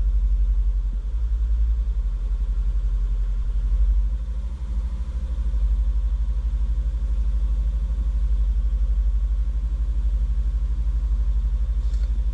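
2002 Volvo V70's 2.4-litre non-turbo five-cylinder petrol engine idling with a steady low rhythmic pulse, with a brief dip about four seconds in. The engine has a misfire on cylinder 1 that persists after the coils were swapped.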